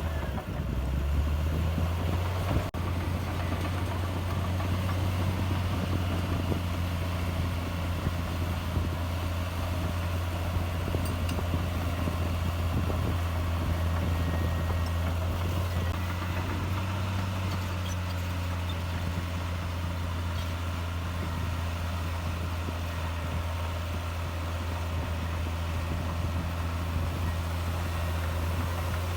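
Heavy diesel engine of earthmoving machinery running steadily with a low, even drone, with a brief dropout about three seconds in.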